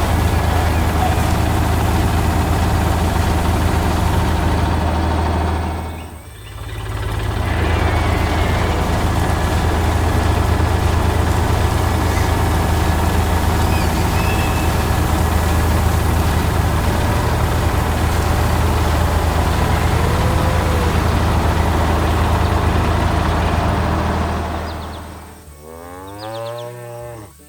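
Tractor engine running with a steady low drone. It fades out briefly about six seconds in and comes back, then fades away near the end, where a short sound with a bending pitch begins.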